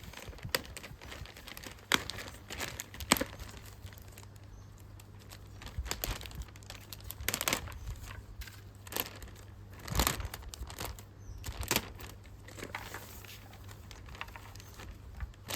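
Irregular crinkling and crackling, with sharp clicks every second or so over a faint low hum.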